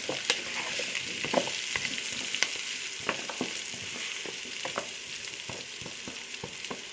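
Pork, onion and pumpkin cubes sizzling in a frying pan, a steady hiss with irregular sharp clicks and scrapes from a utensil stirring against the pan.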